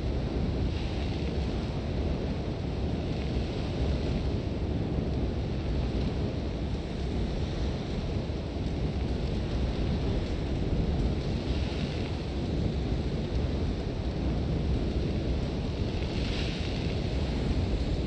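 Sandstorm wind blowing hard and steadily, with a deep rumble underneath and a few swells of higher, sandy hiss, about a second in, at about twelve seconds and again near the end.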